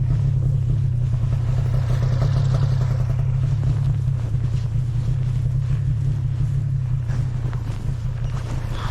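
Vehicle engine running with a steady low drone, slightly quieter after about four seconds.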